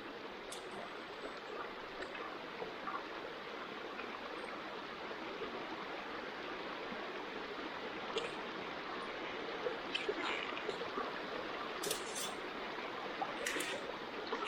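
Wood campfire burning: a steady rushing hiss, with a few sharp crackles and pops scattered through it.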